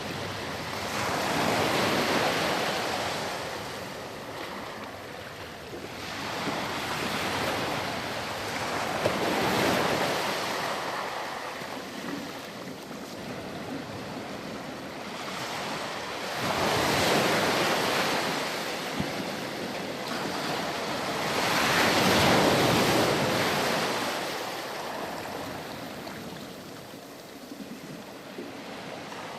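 Ocean waves breaking and washing onto a beach, the surf swelling and fading in slow surges every few seconds.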